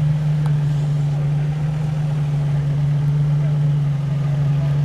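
Car engine idling at a steady speed, a constant low hum.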